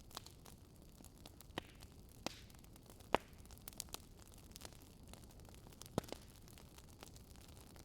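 Wood fire crackling, with irregular sharp pops and snaps; the loudest come about three seconds in and again about six seconds in. Under it is a faint, steady low rush of storm wind.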